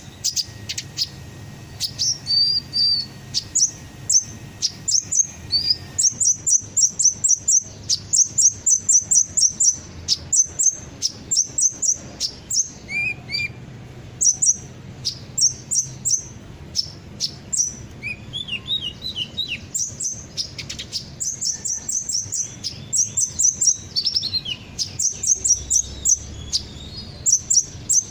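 Sunbird song used as a bait recording: rapid runs of high, sharp chirps and trills, repeated in bursts with short gaps. A few lower, falling notes come in about two-thirds of the way through.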